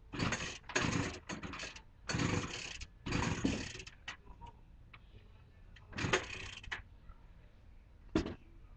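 Craftsman 25 cc two-stroke string trimmer being pull-started cold: a quick run of about five rope pulls, then another pull about six seconds in and a short one near the end, with the engine not catching. A hard cold start after weeks unused, which the owner says needed the throttle held fully down.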